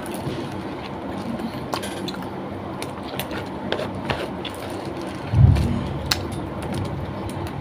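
Close-up chewing and small wet mouth clicks of someone eating rice and chicken by hand, over a steady low background hiss. A dull thump about five and a half seconds in is the loudest sound.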